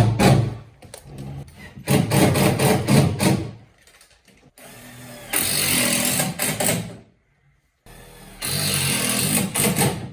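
Power drill running in four bursts of a second or two each, with short pauses between them, as it drives screws or drills holes during an air conditioner installation.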